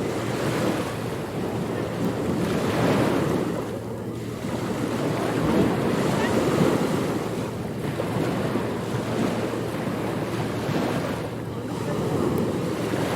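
Surf breaking and washing on a beach, the wash swelling and easing every few seconds, with wind noise on the microphone.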